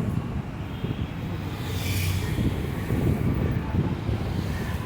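Steady low rumble of road traffic and construction machinery at a metro building site, with a brief hiss about two seconds in.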